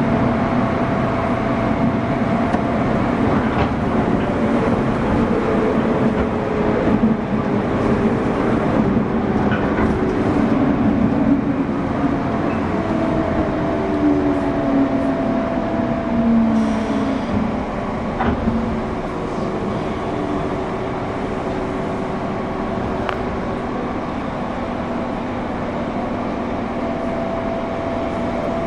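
JR West 201 series electric train running, heard from inside a MoHa 200 motor car that carries no chopper equipment, so no chopper whine is heard. The motor and gear whine glides down in pitch through the middle as the train slows, and from about two-thirds through it settles into a quieter, steady hum.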